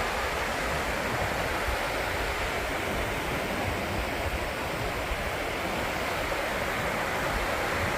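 Waterfall rushing: a steady, even roar of falling water that keeps on without change.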